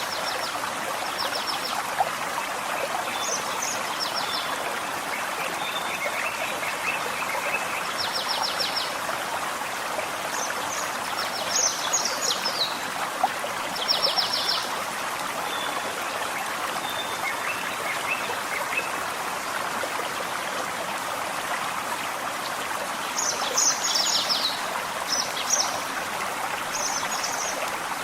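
A small forest stream burbling steadily, with songbirds calling over it in short phrases of rapid high notes, several at once around twelve to fourteen seconds in and again in the last few seconds.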